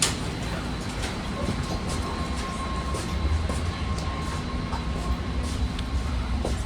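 BART train car running on the track, heard from inside: a steady low rumble with a thin steady whine and scattered light clicks.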